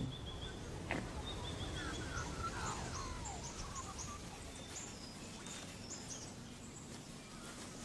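Several birds calling in the bush: a run of short falling chirps about two to three seconds in, and scattered high chirps, over a low steady rumble.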